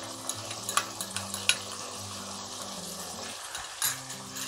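Chicken sizzling steadily in hot mustard oil in a kadhai while being stirred, with a few sharp clicks of the spoon against the pan. Ginger-garlic paste has just gone in to be fried with the chicken.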